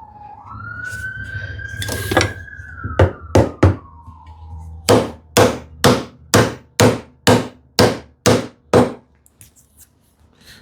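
Hammer tapping the glued drawer joints together: a few separate knocks, then a steady run of about nine taps, roughly two a second, seating the dovetailed drawer box during glue-up. A siren wails faintly in the background through the first half.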